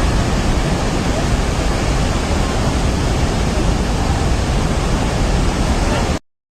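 Loud, steady rush of turbulent floodwater, with a heavy low rumble, that cuts off abruptly about six seconds in.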